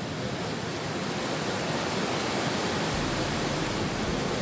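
Steady rushing noise of sea surf along the shore, with a low rumble joining about three seconds in.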